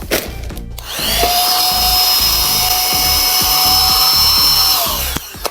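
Cordless handheld car vacuum cleaner's motor switching on about a second in and running with a steady high whine, its pitch creeping up slightly as it sucks the air out of a vacuum-storage bag holding a garment, then winding down and stopping near the end.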